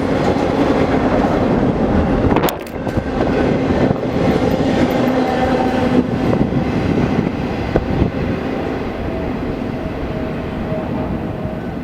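Railroad cars of a long train rolling past, with wheels clattering over the rails and a few faint steady wheel tones. The sound dips briefly about two and a half seconds in, then slowly fades near the end as the train draws away.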